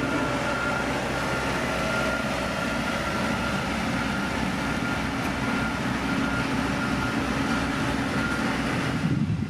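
Diesel engine of heavy road-construction machinery running steadily under work, with a thin high whine over it. The sound changes abruptly about nine seconds in.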